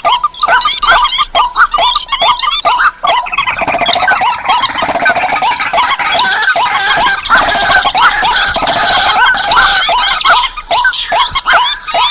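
Recorded calls of paddy-field and swamp birds such as rails, crakes and waterhens, played as a bird-trapping lure. Short repeated call notes come about three a second, and from about a third of the way in they thicken into an overlapping chorus before the notes come clear again near the end.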